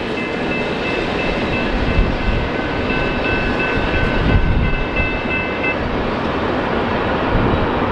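Freight train rolling past with a steady rumble of wheels on rail, and thin high-pitched ringing tones over it that stop about six seconds in.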